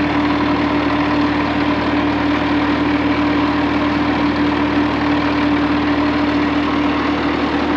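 Engine idling steadily, a constant hum with a fixed tone and no change in speed.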